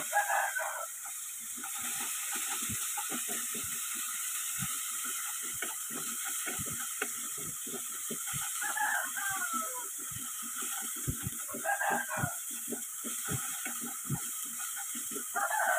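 Spice paste sizzling in a wok as it is stir-fried until cooked, with a wooden spatula scraping and knocking against the pan many times. Short pitched calls come through in the background four times, near the start, twice around the middle and near the end.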